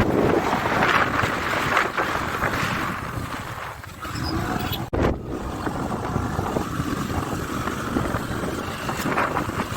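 Steady rushing noise of a waterfall, with wind buffeting the microphone in low rumbling gusts. The sound cuts out for an instant about five seconds in.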